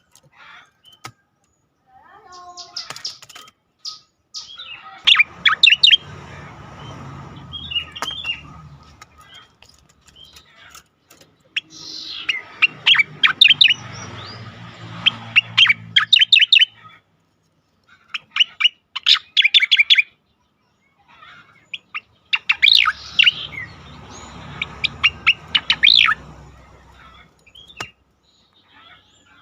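Striated grassbird (cica koreng) singing its fast, rattling 'ngejoss' song: three long bouts of rapid, repeated high notes, with short runs of chirps between them.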